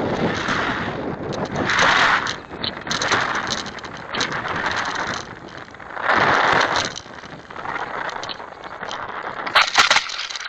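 Wind noise on the microphone, a rough rushing hiss that surges loudly several times, with some crackle.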